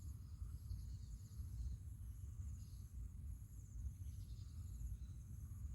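Insects chirring steadily in high, pulsing trills, over a constant low rumble.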